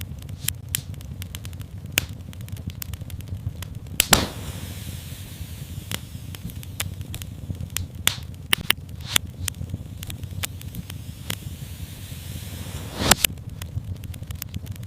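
Wood fire crackling in a fireplace: scattered sharp pops and snaps over a steady low rumble, with a soft hiss through the middle. Two louder pops come about four seconds in and near the end.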